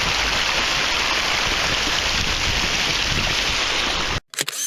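Waterfall's running water, a steady, even rush that cuts off abruptly about four seconds in, followed by a brief, different burst of sound.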